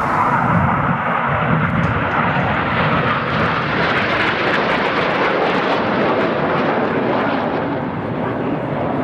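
BAE Hawk T1 jet trainers in formation flying low past, their Adour turbofans making a loud, steady jet noise.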